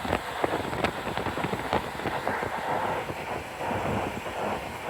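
German fire engine under way, heard from aboard: a rough rumbling ride noise with many sharp knocks and rattles from the body throughout.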